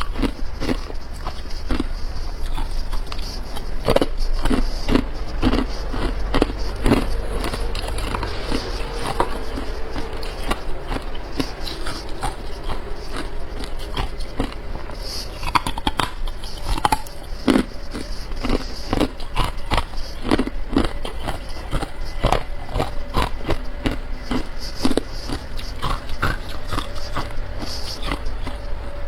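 Close-miked crunching of hard carbonated ice as it is bitten and chewed: a steady run of sharp, irregular cracks and crunches.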